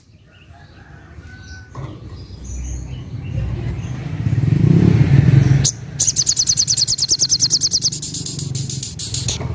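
A passing motor vehicle's low rumble swells to a peak about five seconds in and cuts off. Then a sogok ontong bird sings a fast trill of rapid, evenly repeated high notes, about eight a second, for a couple of seconds.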